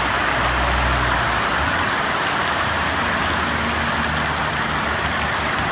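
Heavy rain pouring down in a steady hiss, with a faint low hum underneath.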